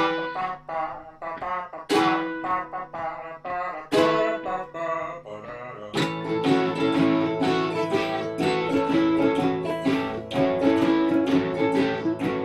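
Instrumental blues intro on acoustic guitar and ukulele. Single strummed chords ring out about every two seconds, then steady rhythmic strumming takes over from about halfway through.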